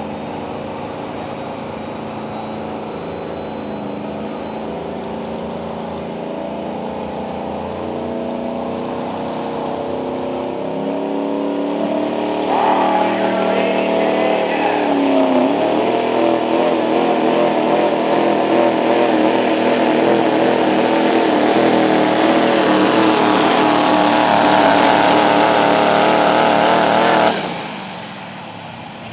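Turbocharged diesel engine of a 6,500 lb Light Pro Stock 4WD pulling truck building revs with a faint rising whistle, then launching louder about twelve seconds in, its pitch dipping briefly as it takes the load, and pulling hard and steady down the track before cutting off suddenly near the end.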